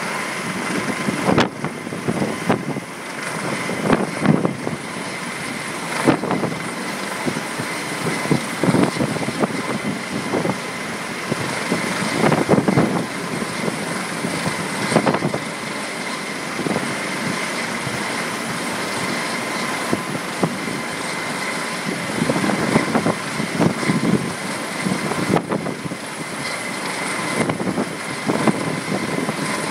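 Helicopter running close by: steady engine and rotor noise with irregular thumps through it.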